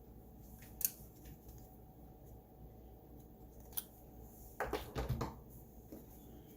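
Handling noises from small hard objects being worked by hand. There is a sharp click about a second in, another near four seconds, and a brief cluster of clicks and knocks around five seconds.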